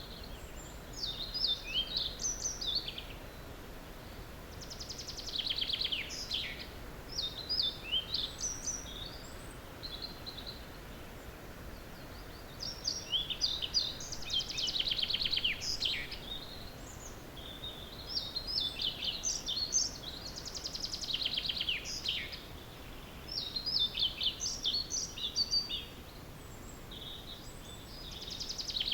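Several small songbirds singing in an early-morning chorus: high, quick song phrases of a few seconds each, coming every few seconds, some ending in a fast falling trill, over a steady background hiss.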